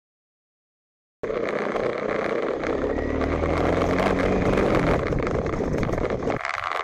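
Motorcycle engine running on the move, under wind rush, cutting in abruptly about a second in after total silence; the engine pitch drifts up and down slightly.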